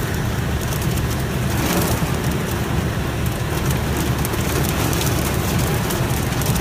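Heavy thunderstorm rain pouring steadily, with wind rumbling on the microphone.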